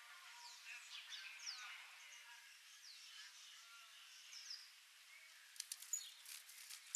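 Faint bird calls: many short, thin, high chirps that sweep downward in pitch. A run of sharp clicks joins them near the end.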